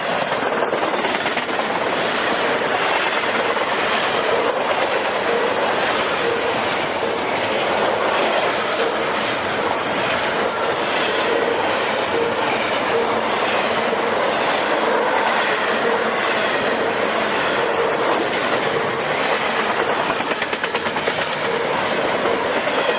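Cars of a short intermodal freight train rolling past close by: a steady rush of steel wheels on rail with rhythmic clickety-clack over the rail joints and a faint steady whine.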